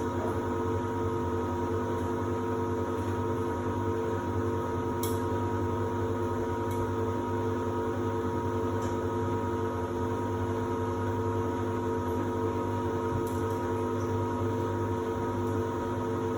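Samsung WD70T4047CE washer-dryer running with a steady hum and several steady whining tones, and a few faint ticks.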